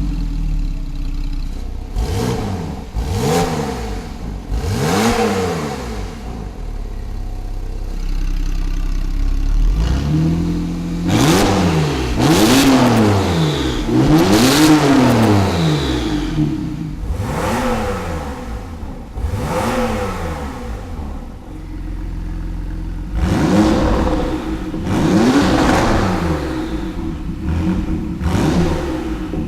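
Porsche 911 flat-six engine with a custom exhaust and high-flow catalytic converters being blipped from idle: quick revs that rise and fall in pitch, coming in clusters. The engine settles back to a steady idle between the clusters.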